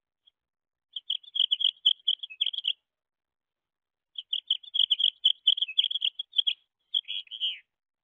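Songbird calling: two quick runs of high, rapid chirps lasting a couple of seconds each, then a short call that drops in pitch near the end.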